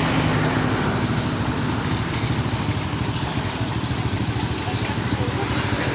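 Truck engine running steadily, with an even, rapid low pulse.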